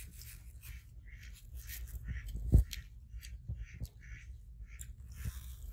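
Macaques biting and chewing pieces of fresh fruit: a string of short, irregular wet crunches and smacks. One low thump comes about two and a half seconds in.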